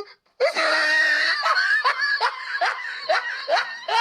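Meme sound clip of high-pitched snickering laughter: a held squeal, then a string of short rising snickers about two or three a second.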